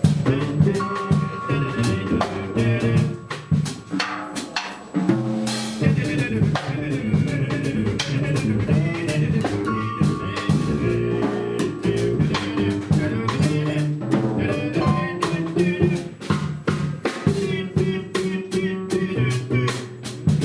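Small jazz ensemble playing live: a walking bass line and pitched melody instruments over a drum kit with busy cymbal and snare strokes.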